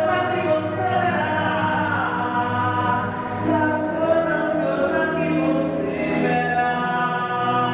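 A choir singing in long held notes, several voices at once, with music under it.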